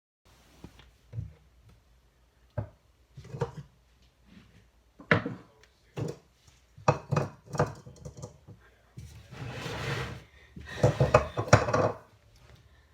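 Slime-making containers and utensils being handled: a string of irregular knocks, clinks and scrapes that grows busier after about five seconds, with a longer rubbing stretch about nine seconds in.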